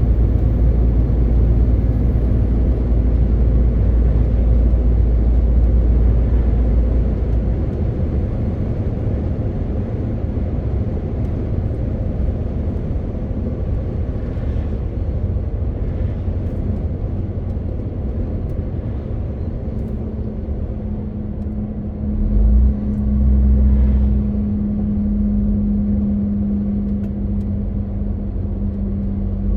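MAN TGX 18.520 truck's diesel engine running on the road, with tyre and road noise, a steady low rumble. The deepest rumble eases about a quarter of the way in; about two-thirds through a steady engine note sets in, with a brief louder surge just after.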